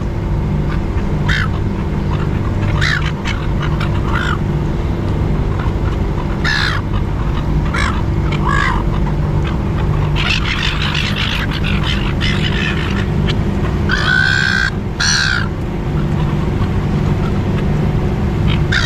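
A flock of silver gulls squawking, with short harsh calls at intervals that thicken into a run of calls past the middle and peak in a loud burst about three-quarters through. A steady low hum runs underneath.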